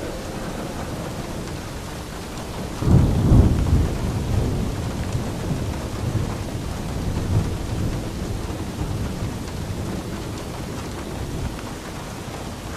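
Steady rain with a roll of thunder: a sudden deep crack about three seconds in that rumbles on and dies away over several seconds.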